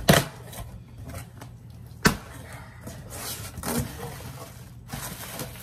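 A cardboard shipping box being opened by hand: flaps and packing rustling, with two sharp knocks, one at the start and another about two seconds later.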